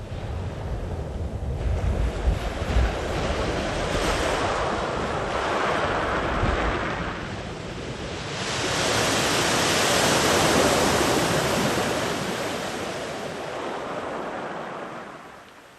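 Sea waves rolling in and breaking, a long wash up the shore with two surges, the second and louder one swelling and slowly ebbing in the middle. Wind rumbles on the microphone early on, and the sound fades out near the end.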